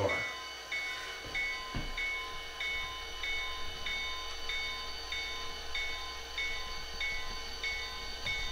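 HO scale GP40-2 model locomotive's SoundTraxx Tsunami2 sound decoder playing a diesel engine running, with the bell ringing steadily at about a stroke and a half a second as the locomotive moves off. A soft low knock comes about two seconds in.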